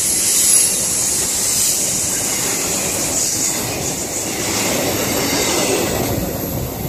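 Container cars of a BNSF intermodal freight train rolling past close by, steel wheels running on the rails with a steady high-pitched hiss. The tail end of the train goes by near the end.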